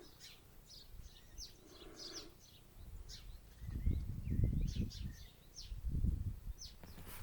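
Small birds chirping over and over, each call a short high note falling in pitch, with low rumbling noise swelling for a second or so twice in the second half.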